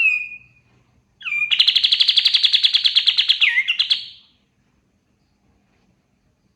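Kapas tembak songbird calling: a short falling note, then about a second later a long, fast, evenly pulsed trill of about three seconds that stops abruptly.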